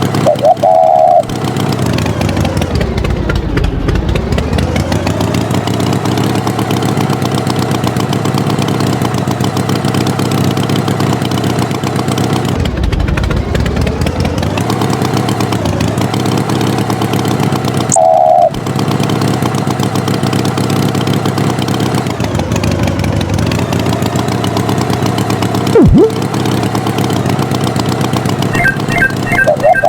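A tractor engine runs steadily, its pitch dipping and climbing back three times. Short toots sound about a second in and again near the middle, and a sharp knock comes late on.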